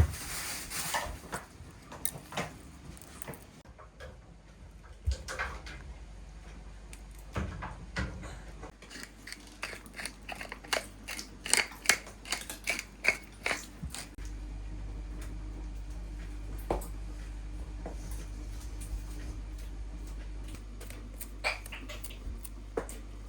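Kitchen work: scattered clicks, taps and knocks of dishes and utensils being handled, in clusters through the first half. A steady low hum comes in about halfway through.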